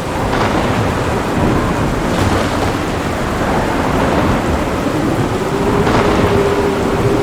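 Heavy thunderstorm: steady heavy rain with thunder rumbling underneath, and sharper cracks of thunder about half a second in, around two seconds, and near six seconds.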